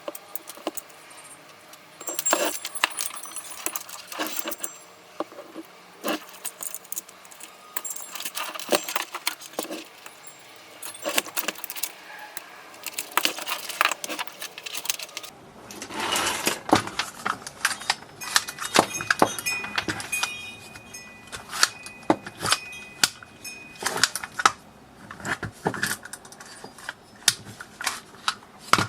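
Many separate clicks, knocks and metallic clinks of small hard parts being handled and pulled loose as a coffee machine is taken apart, busier in the second half.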